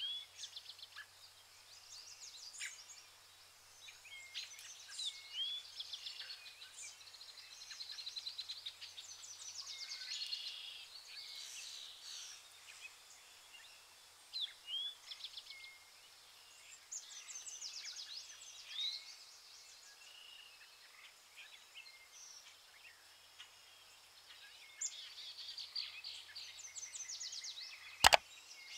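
Birds chirping and whistling, many short calls and rapid trills overlapping throughout, with one sharp click near the end.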